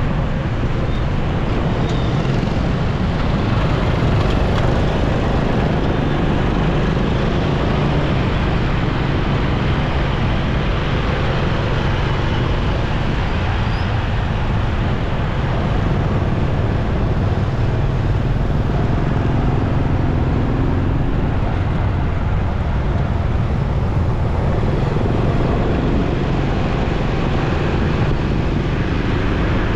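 Steady road and traffic noise heard from a moving motorcycle: engine and tyre noise under a constant low rumble, with no single event standing out.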